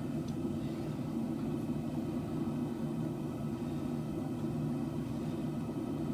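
Gas forge burners running with a steady, even roar.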